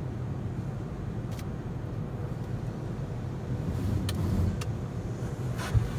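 A car engine idling, a steady low rumble heard from inside the cabin, with a few light clicks.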